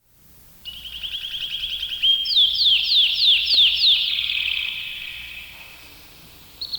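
A songbird singing: a fast trill, then a series of about six clear notes that each slide downward in pitch, the song trailing off and fading. A fresh trill starts near the end.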